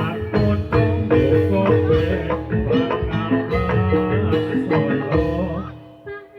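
Gamelan music for a jathilan dance, played loud through a sound system: rhythmic struck metallophone tones over low drum beats. The music thins out and drops away near the end.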